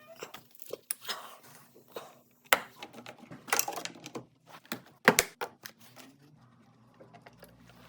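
Irregular metallic clicks, clinks and short scrapes of hand tools and metal parts being handled, with the sharpest knocks about two and a half and five seconds in, over a faint steady hum.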